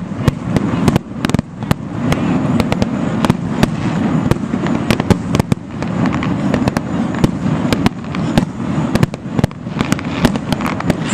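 Aerial fireworks display: a rapid string of sharp bangs and crackles, several a second, over a continuous low rumble of bursting shells.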